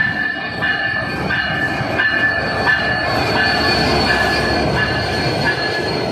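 Train wheels squealing against the rails, a high piercing tone that breaks off and comes back about every two thirds of a second, over the steady rumble of the carriages running on the track.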